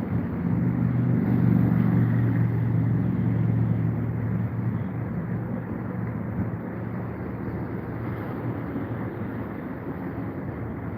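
An engine running steadily, louder for the first few seconds and then easing to a lower, even level.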